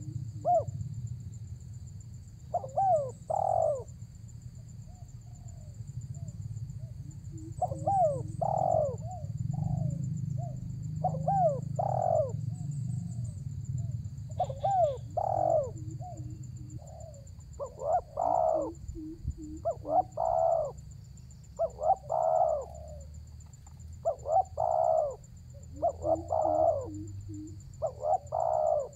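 Spotted dove (tekukur) cooing over and over, a phrase of several coos every two to three seconds, coming closer together in the second half. It is a strong, persistent call of the kind used to lure wild doves in.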